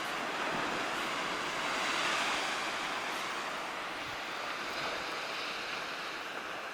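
Sea surf washing onto the shore, a steady rushing of waves that swells about two seconds in.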